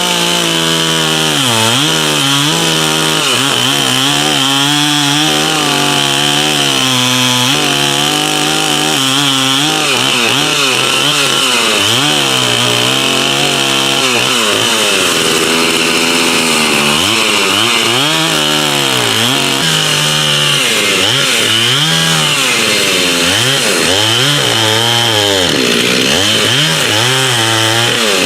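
Stihl 044 two-stroke chainsaw running hard and cutting wood, its engine pitch dipping as the chain loads in the cut and climbing back again, over and over.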